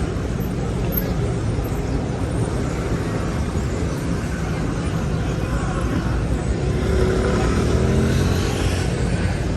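City street traffic: a steady rumble and hiss of passing cars, a little louder for a couple of seconds near the end.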